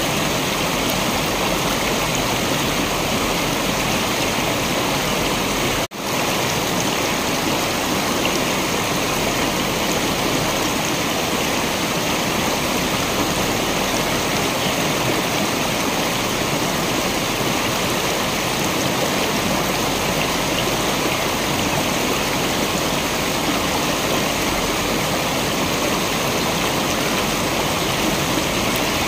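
Waterfall water rushing steadily, an even, unbroken hiss, with a split-second dropout about six seconds in.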